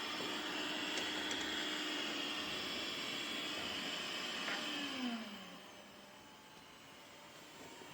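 Dreame X50 Ultra robot vacuum's suction motor running with a steady whirring whine, then winding down with a falling pitch about five seconds in, leaving a quieter hum.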